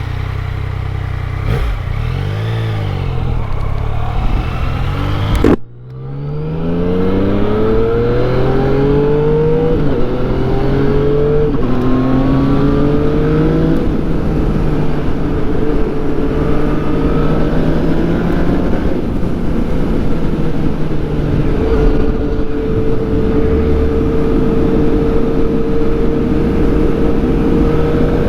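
2014 Yamaha FZ-09's 847 cc inline-three engine running with a brief throttle blip. About five seconds in there is a sudden break, then the bike accelerates hard through several upshifts, the pitch rising and dropping at each shift, and settles into steady cruising.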